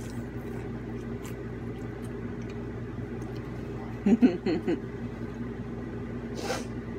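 Mouth sounds of a person eating rotisserie chicken: faint clicks and smacks of chewing, and a short hummed 'mm-hmm' of enjoyment about four seconds in. A steady low hum runs underneath.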